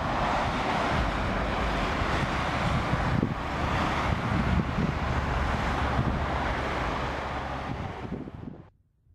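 Hopper wagons of a nickel ore train rolling away along the track: a steady rumble of wheels on rail, with wind buffeting the microphone. It fades near the end and then cuts off.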